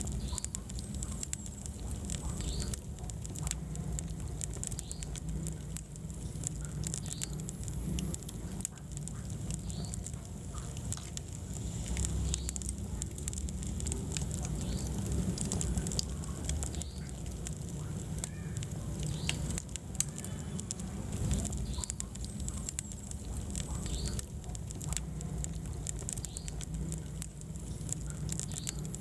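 Wood fire burning in a fireplace: frequent irregular crackles and sharp pops over a steady low rumble of the flames.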